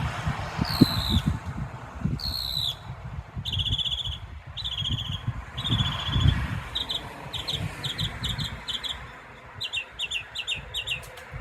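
Northern mockingbird singing, repeating each phrase several times before switching to the next: slurred downward notes first, then buzzy trills, then runs of quick short notes. A low rumble runs underneath.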